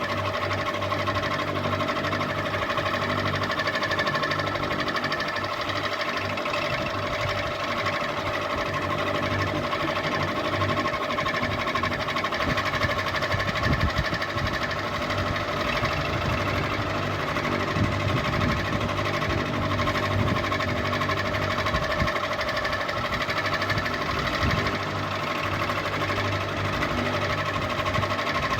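Ceiling fan running steadily: a continuous motor hum with a fast, even rattle.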